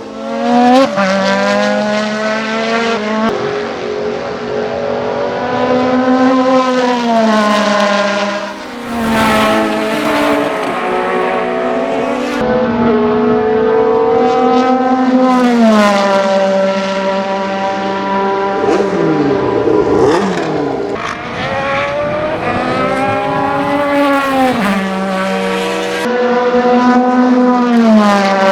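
Ferrari 156/85 Formula 1 car's 1.5-litre twin-turbo V6 running hard on track: the pitch climbs in steps as it pulls through the gears, then drops away when the driver lifts off. This happens again and again, with one short stretch of overlapping rising and falling pitches partway through.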